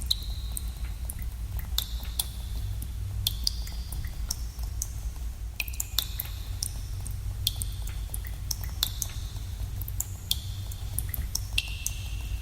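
Water drops falling into still water, echoing in a cave: each drop a sharp click with a short ringing plink, at irregular intervals of about one a second, over a steady low rumble.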